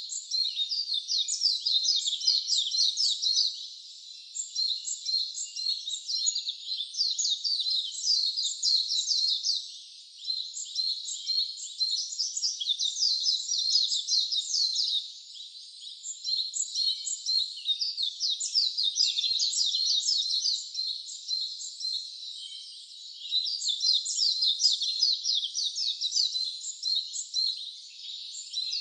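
Songbirds singing fast, high-pitched chirping songs of many rapid falling notes, in bouts of several seconds separated by brief pauses.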